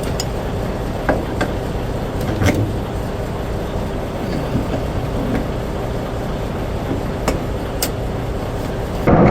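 Steady diesel engine and cab rumble from inside a semi truck, with a few light clicks. Near the end the noise suddenly gets louder.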